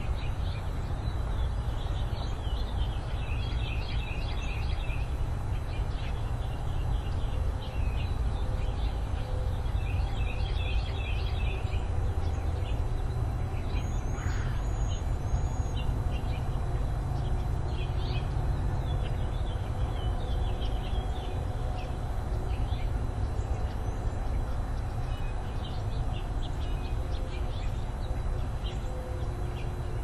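Small birds chirping in short repeated series, with scattered single calls, over a steady low rumble.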